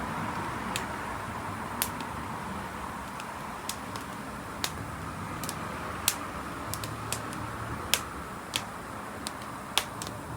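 Wood fire burning with a steady hiss and irregular sharp crackling pops, about one or two a second.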